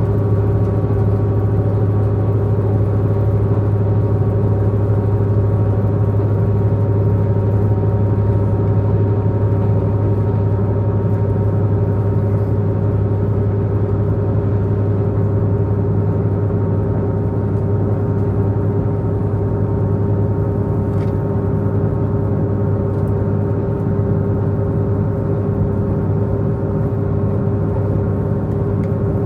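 Diesel engine of a Tze-Chiang diesel multiple-unit express working steadily at speed, heard from inside the passenger car: a loud, even low drone with steady tones above it, and one faint click about 21 seconds in.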